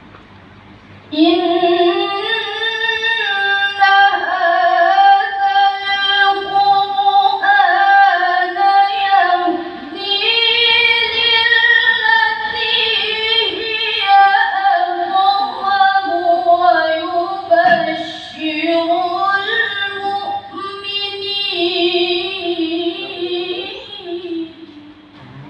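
A girl's high voice reciting the Quran in melodic tilawah style, holding long, ornamented notes in phrases with short breaths between them. It comes in about a second in and stops near the end.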